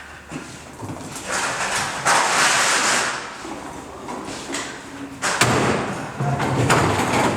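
Thuds and knocks from handling insulation material during installation work, with about two seconds of hissing, rustling noise starting a second or so in.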